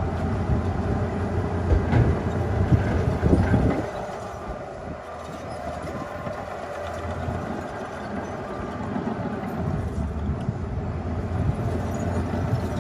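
Bulldozer's diesel engine running while its steel crawler tracks clank. It is loudest, with a string of metallic knocks, for the first four seconds, then settles to a quieter, steadier run.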